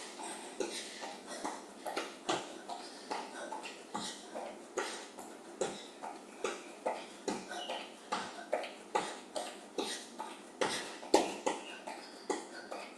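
Shoes landing on the floor in a steady rhythm during a jumping exercise, a little over two landings a second, with hard breathing between them.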